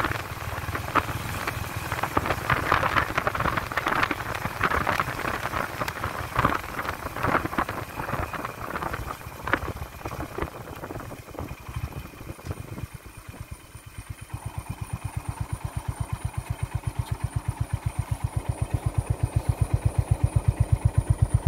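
Honda H'ness CB350's single-cylinder engine under way with wind and road noise, easing off and going quiet about 13 seconds in. It then settles into a steady thumping idle of about seven beats a second, growing louder near the end.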